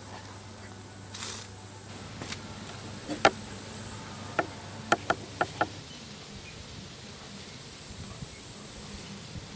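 Crickets chirring in a steady, high-pitched trill, with a string of about six sharp ticks or clicks in the middle, the first the loudest.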